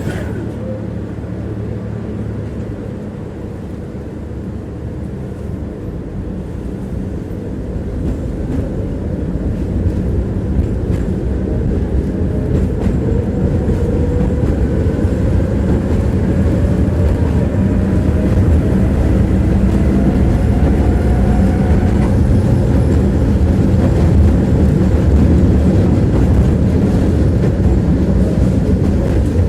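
Tram running along its rails, heard from inside the passenger cabin: a steady rumble of wheels on track that grows louder over the first half, with a faint whine rising slowly in pitch as it gathers speed.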